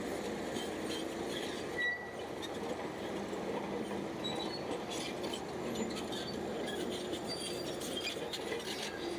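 Crawler bulldozer working, with its steel tracks squeaking and clinking over the steady running of the engine.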